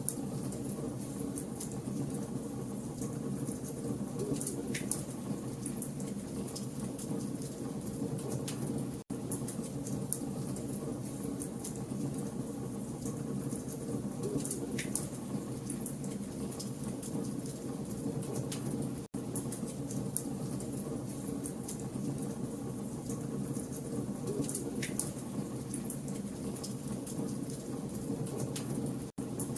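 Wood fire burning, a steady low rush of flame with frequent sharp crackles and pops of burning logs, a few louder pops about every ten seconds. The sound cuts out for an instant about every ten seconds, where a short recording loop joins.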